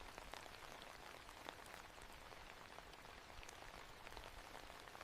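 Faint rain falling, with scattered drops pattering on a surface.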